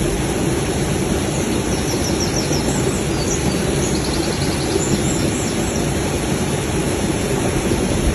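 Forest ambience: a steady, loud rushing noise, with a few faint, high bird chirps between about one and a half and five and a half seconds in.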